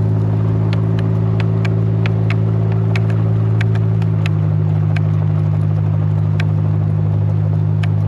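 Tow truck engine running steadily under load as it pulls a stuck car up a steep hill, its pitch shifting slightly about halfway through, with scattered sharp clicks over it.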